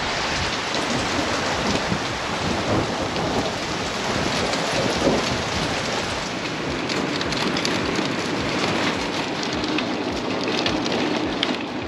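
Heavy rain pouring down, a steady dense hiss that starts suddenly and holds at an even level.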